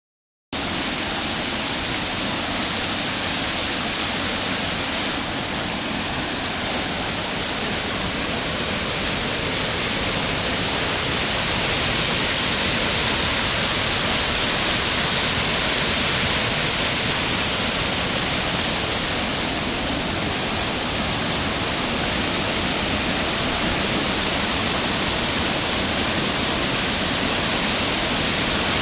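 Floodwater rushing steadily past a flooded bridge, a continuous hiss of moving water that grows a little louder about ten seconds in.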